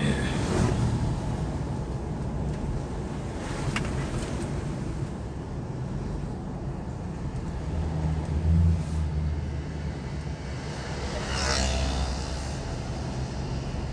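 2020 Toyota Hilux turbodiesel engine running with a steady low rumble, with short high whistles from its stock turbocharger as it spools up.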